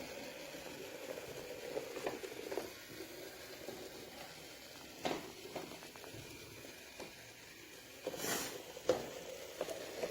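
Small electric motor of a battery-powered toy train whirring as it runs along its track, with a few sharp clicks and knocks, the loudest pair near the end. The whir fades after the first few seconds.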